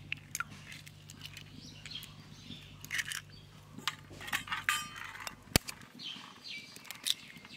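Eggs cracked with a steel spoon over a steel bowl: a series of sharp taps on the shell, the sharpest a little over five and a half seconds in. Bird chirps sound in the background.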